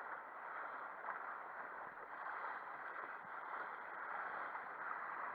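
Faint, steady wash of water against the hull of a sailing dinghy under way.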